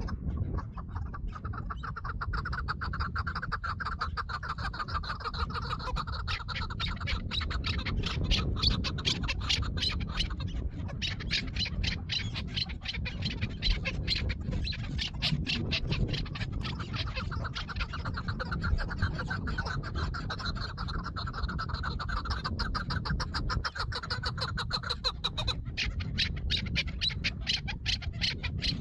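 Chukar partridges calling: long runs of fast, repeated clucking notes in two main bouts, over a steady low rumble.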